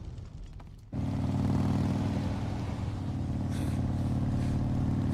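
Low rumble fading for about a second, then a vehicle engine cuts in suddenly and runs steadily at a low, even pitch.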